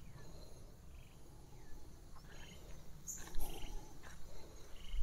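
Short, scattered bird chirps over a low rumble of wind on the microphone.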